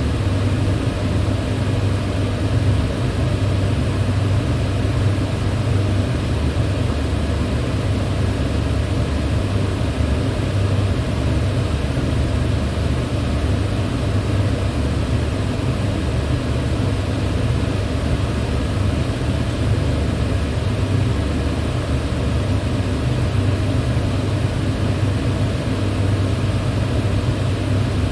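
Electric fan running at a steady speed: an even rush of air over a strong low hum, with no change in pitch or level.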